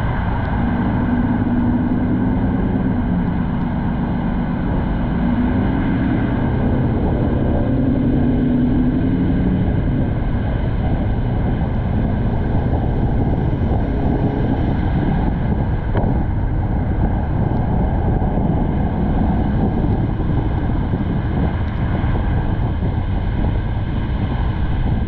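Wind and road noise at a car-roof-mounted action camera while the car drives: a steady, loud rushing noise, with a low droning hum over roughly the first ten seconds.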